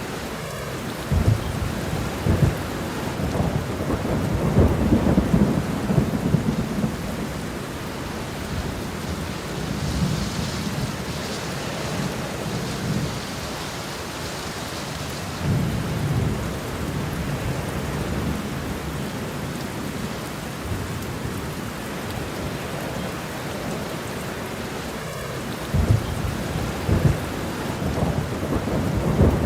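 Steady rain with low rolling thunder. Rumbles start about a second in and last several seconds, return briefly near the middle, and come again near the end.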